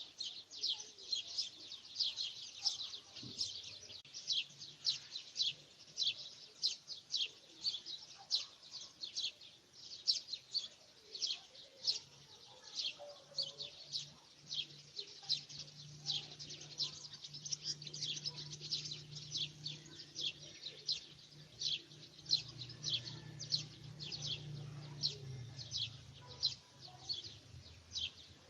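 Small birds chirping: a steady run of short, high-pitched notes at about two a second. A faint low drone joins in about halfway through and fades out near the end.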